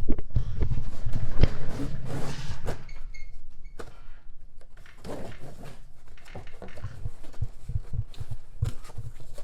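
Cardboard boxes being opened and handled: rustling and scraping in the first few seconds, with repeated knocks and thunks throughout.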